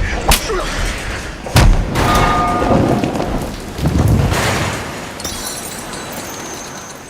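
Film sound effects: two sharp heavy hits, about a third of a second and a second and a half in, followed by a deep booming rumble that swells about four seconds in and slowly fades.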